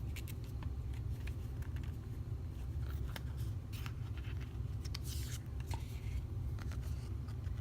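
Oracle cards being handled and turned over: faint scattered taps and a brief sliding swish about five seconds in, over a steady low hum.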